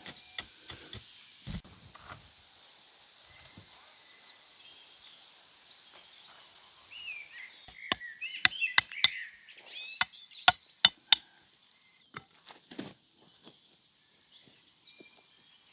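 Small birds chirping, with a run of sharp knocks, about a dozen in quick succession, about halfway through.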